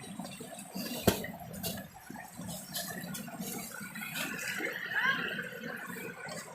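Water running in a valley stream, an uneven rushing and gurgling. There is one sharp click about a second in, and fainter, wavering higher sounds near the end.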